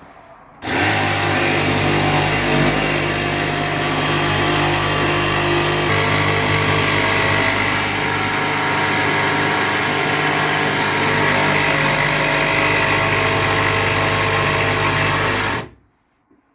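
Electric power saw running steadily while cutting an opening in a wooden panel. It starts sharply just under a second in and stops abruptly near the end.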